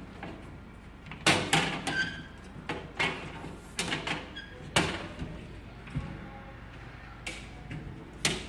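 A string of short knocks and clunks, about nine spread unevenly over several seconds, some quite close together.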